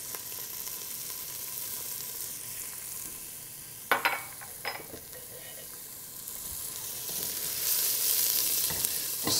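Onions and sliced garlic sizzling in hot vegetable oil in a stainless steel sauce pot as they start to sweat. Two sharp clicks come about four seconds in, and the sizzle grows louder near the end as the pot is stirred.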